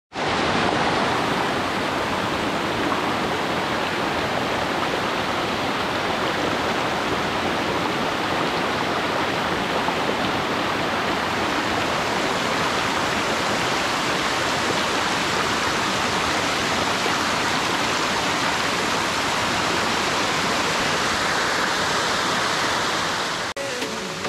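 Waterfall on a small river pouring steadily: a dense, unbroken rush of falling water.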